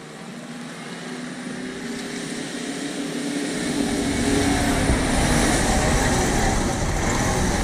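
Off-road 4x4's engine revving and working hard, growing steadily louder, with a deep rumble joining about halfway through.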